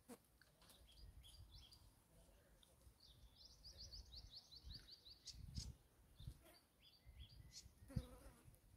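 Faint bird chirping, scattered short calls with a quick run of about ten rapid chirps a little past three seconds in, over quiet outdoor background.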